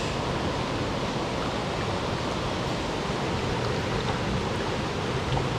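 Mountain stream water rushing over rocks, a steady, even noise.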